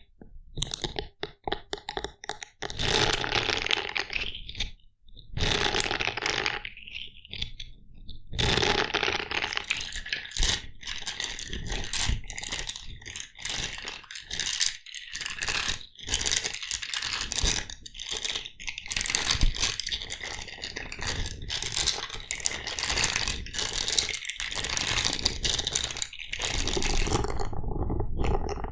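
Close-miked scratching and scraping with many small clicks and taps, coming in stretches of a few seconds with brief pauses between them.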